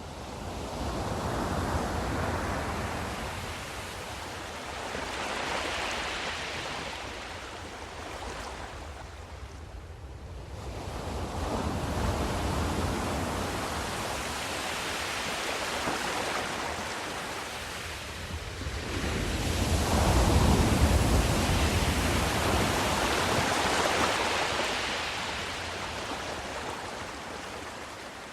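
Ocean waves surging in and washing back, a rushing noise that swells and fades about four times, the loudest surge about two-thirds of the way through.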